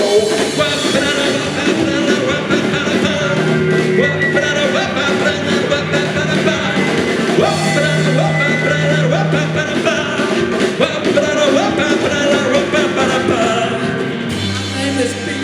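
Live rock band playing loud amplified music.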